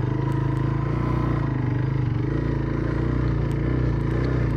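Jawa 125 Dakar enduro motorcycle engine running at low, steady revs.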